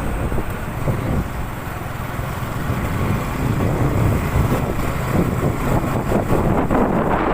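Wind rushing over the microphone of a Honda CB150R motorcycle while riding, with the bike's single-cylinder engine running underneath. The rush eases a little about two seconds in, then builds again.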